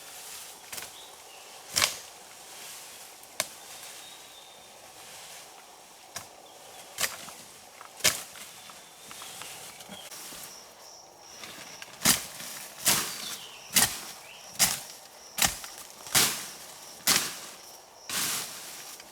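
Chopping wood with a blade: scattered single strikes at first, then a run of about eight evenly spaced chops, a little under one a second, in the last third.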